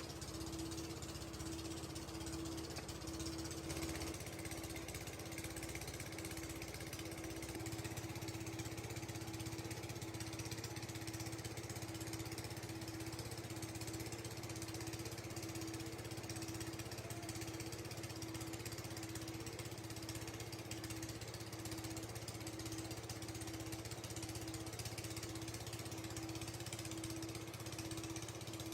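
Factory machinery running steadily: a constant mechanical hum and drone with a steady whir, the low hum shifting slightly a few seconds in.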